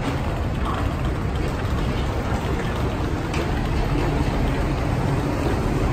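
Steady low rumble and hiss of a passenger train standing at a station platform, with a few faint clicks.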